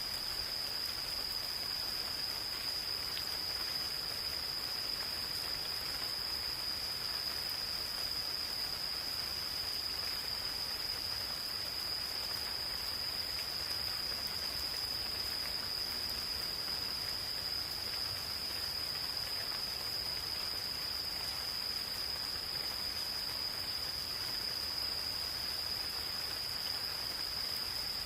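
Insects calling in one continuous high-pitched trill that holds steady throughout, over the soft even patter of gentle rain in a forest.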